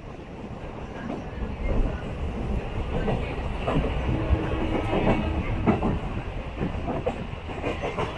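Electric multiple-unit suburban train running at speed, heard on board by an open door: steady low rumble with wheels clacking over rail joints, growing louder about a second in.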